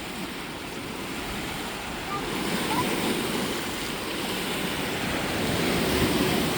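Small lake waves washing onto the shore: a steady rushing wash that grows a little louder partway through.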